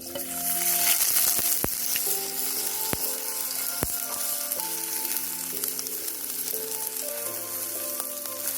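Steak sizzling as it sears over a campfire. The sizzle starts suddenly, is loudest about a second in, then holds steady, with background music under it.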